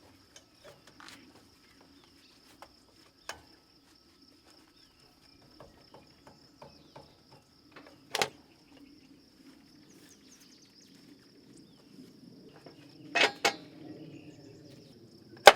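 Hydraulic hose couplers on a tractor loader being released by hand: light metallic ticks and handling, with a sharp click at about eight seconds, two close together near thirteen seconds and another near the end. A steady high-pitched hum runs underneath.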